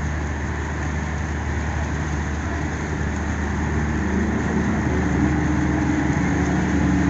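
A heavy engine running steadily with a low drone. About four seconds in, a second, higher engine note comes in and the sound grows a little louder.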